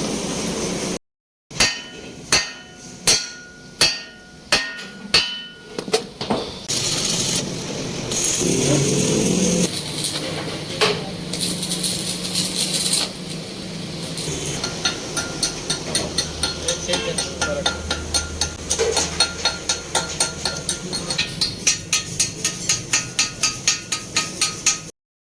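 Hammer blows on steel that ring after each strike, first a slower run of about seven blows and later a long, fast, even run of about two to three blows a second. A stretch of steady noise lies between the two runs.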